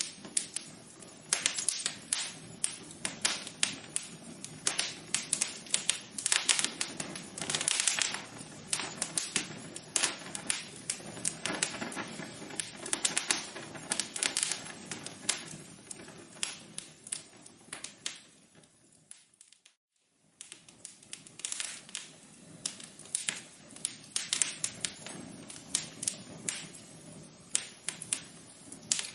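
Wood fire crackling in a fireplace: dense, irregular pops and snaps. About two-thirds of the way through it fades almost to silence for a moment, then comes back.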